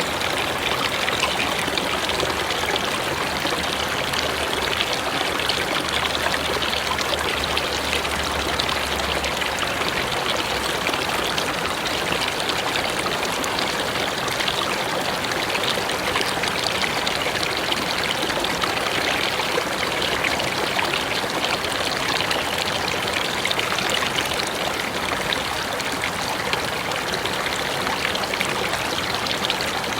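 Mountain river rushing steadily, an even, unbroken wash of flowing water.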